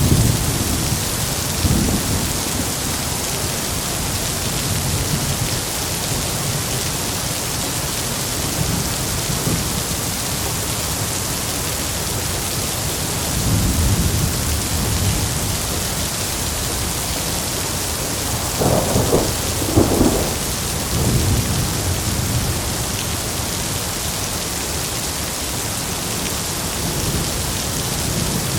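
Heavy rain falling steadily, with thunder rumbling low several times and two sharper cracks of thunder about two-thirds of the way through.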